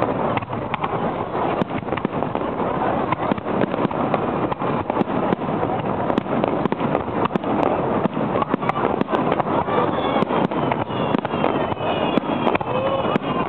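Fireworks in a rapid-fire barrage: aerial shells launching and bursting in an unbroken string of bangs, several a second.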